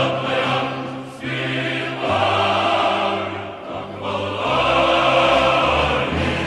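Background music of a choir singing, with long held chords in phrases that break off briefly about a second in and again past three and a half seconds.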